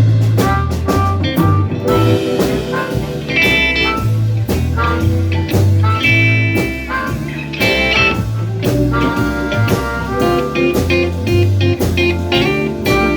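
Live blues band playing an instrumental passage: a guitar plays a lead line over a walking bass line and steady drums.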